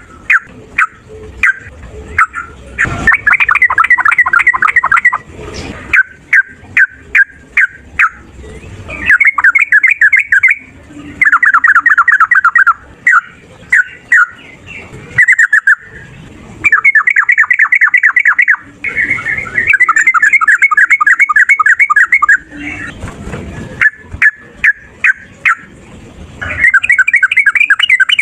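Yellow-vented bulbul (trucukan) singing in long, fast rattling runs ("ropel") of rapid repeated notes. The runs last a second or more each and alternate with short single chirps.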